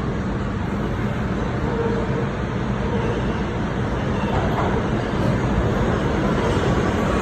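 New York City subway train running with a steady low rumble.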